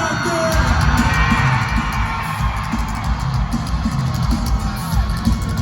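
Live concert music with heavy, pulsing bass over a loud sound system, with the crowd yelling and cheering over it.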